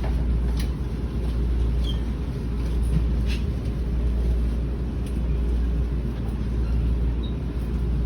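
Steady low rumble of an electric train standing at a station platform, with a few faint clicks.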